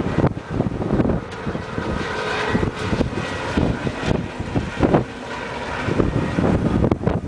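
Storm wind gusting hard and buffeting the microphone, a continuous rushing roar with uneven low thumps.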